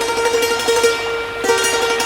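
Thai khim (hammered dulcimer) playing a slow melody, its strings struck in quick repetition so the notes ring on.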